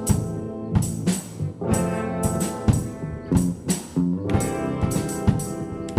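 Soul band playing live: brass section holding chords over drum hits and tambourine.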